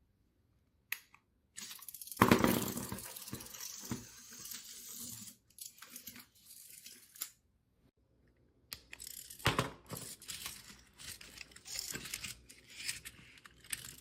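Small materials being handled: tearing and crinkling noise with clicks and knocks, in short cut-together stretches, with a sharp knock about two seconds in and another about nine and a half seconds in.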